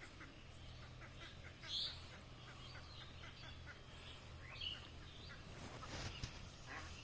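Small birds chirping: short high calls about every two seconds, the loudest about two seconds in, with a quick run of ticking calls in the first half.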